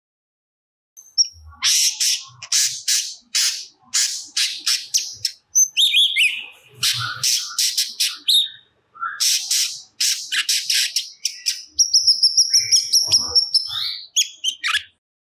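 Cucak cungkok singing in full voice, a run of rapid, sharp high notes and phrases, mixing in material copied from other birds. A long high whistle near the end is followed by a few short notes.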